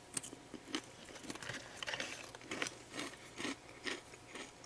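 Crunchy chewing of a Meiji Yan Yan biscuit stick dipped in strawberry cream, with short crisp crunches about twice a second.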